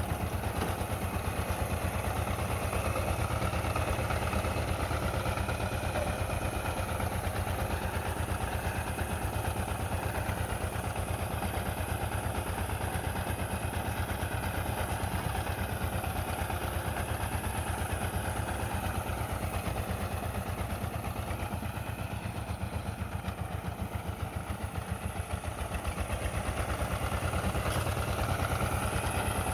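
Power tiller's diesel engine running steadily at idle after being hand-cranked, with an even, rapid chugging beat.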